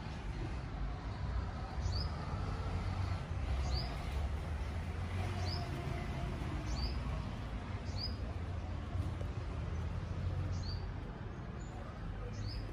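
A small bird repeating one short, high chirp about every one and a half seconds, about seven times, over a steady low background rumble.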